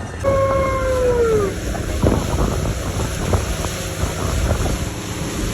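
Motorboat running at speed over water, with wind buffeting the microphone and scattered knocks from the hull and spray. A single falling tone about a second long sounds near the start.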